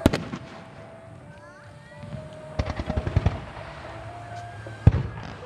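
Aerial fireworks shells bursting: a sharp report at the start, a rapid run of crackling reports about two and a half to three and a half seconds in, and one heavy boom near the end. Faint music plays underneath.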